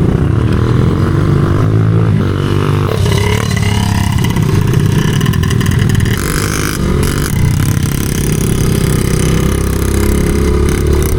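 Small pit bike engine running and revving, its pitch rising and falling as the bike is ridden.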